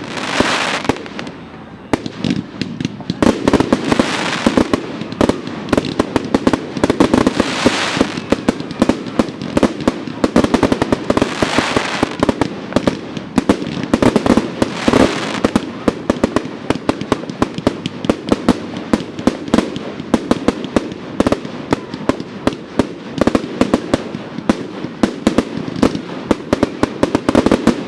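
Fireworks going off without a break: a dense run of sharp bangs and crackles, swelling louder every few seconds.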